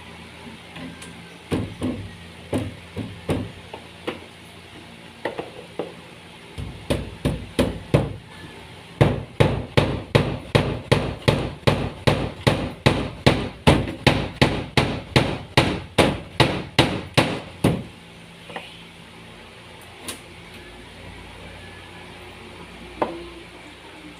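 Hammer blows in carpentry work. A few spaced strikes come first, then a steady run of about twenty blows at two to three a second, which stops about eighteen seconds in.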